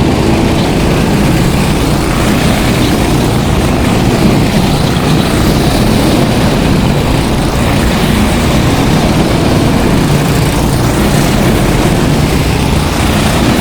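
Go-kart engines running steadily as karts lap the wet track.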